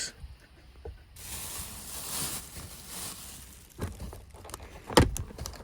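Rustling of gear being rummaged through and handled: a hissy rustle for a couple of seconds, then a few light clicks and a sharp knock about five seconds in.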